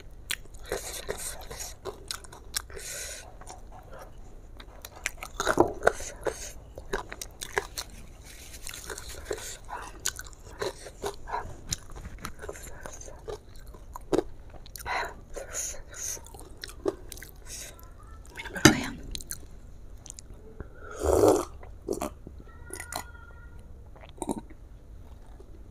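Close-up chewing and crunching of crispy fried chicken, with many short sharp crackles and wet mouth sounds. About 21 s in there is a brief louder voiced sound, and near the end she drinks from a glass.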